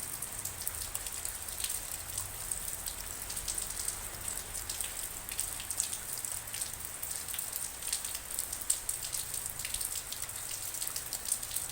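Steady rain falling, with many separate drops tapping on a surface close by.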